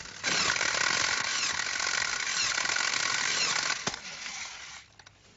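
A loud mechanical rattling noise lasting about three and a half seconds, stopping just under four seconds in, followed by a single sharp knock.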